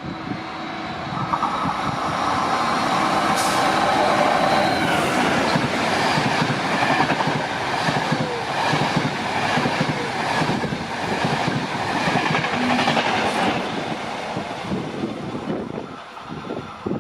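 A train passing through a station, its wheels clattering rhythmically over the rail joints. It builds over the first couple of seconds and eases off near the end.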